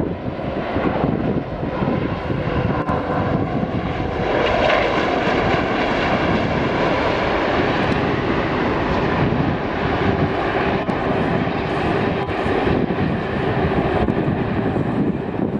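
Jet airliner's engines on a landing approach: a steady rush of engine noise with a faint tone that slowly drops in pitch.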